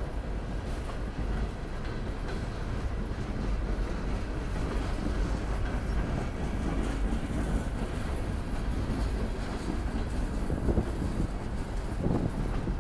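Norfolk Southern train rolling past, a steady rumble of railcars on the track with a few louder knocks near the end.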